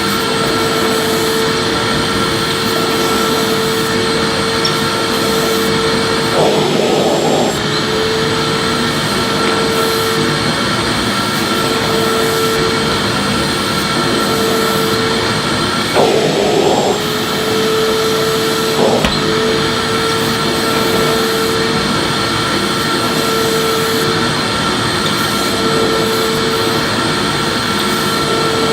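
Electric vacuum cleaner running steadily, a constant whine over rushing air. The sound shifts briefly twice, about a quarter and about three-fifths of the way through, with a single click shortly after the second, as the cleaner is swept.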